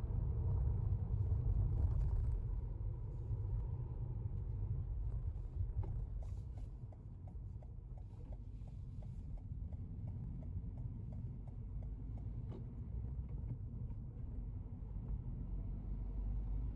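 Car driving, heard from inside: a steady low road and engine rumble. A run of regular light ticks comes through in the middle.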